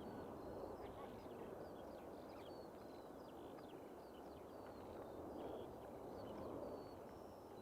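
Small birds chirping in short, scattered calls over a faint steady background rumble.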